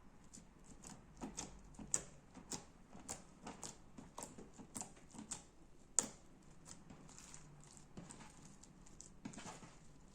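Slime being pressed and squished by hand, making a quiet run of small crisp clicks and pops about two a second, with two sharper snaps about two and six seconds in.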